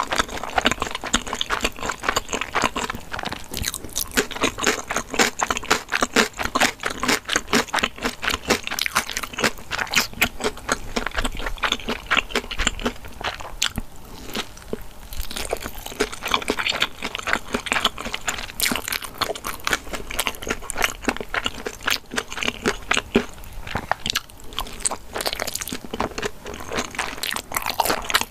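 Close-miked eating of large dumplings, including kimchi dumplings: bites and chewing with dense, irregular mouth clicks.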